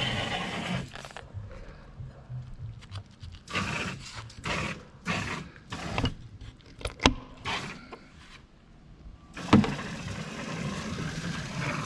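Knife cutting the head off a plucked chicken: a run of short rasping strokes about two a second with a couple of sharp clicks, then a single knock about nine and a half seconds in, over a faint steady hum.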